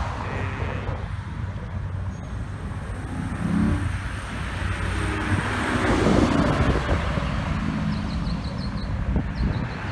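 Car engines running as cars drive out of a car show, with one vehicle growing louder and passing about six seconds in over a steady low rumble.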